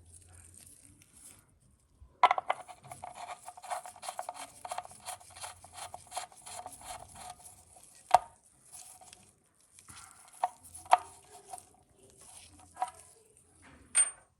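Ratchet wrench clicking quickly for about five seconds, then several separate sharp knocks of metal tools or parts.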